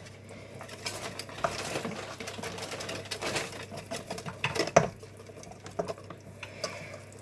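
Electric hand mixer running steadily in a bowl of cake batter, with scattered clicks and knocks of utensils against the bowl; one sharp knock about two-thirds of the way through is the loudest sound.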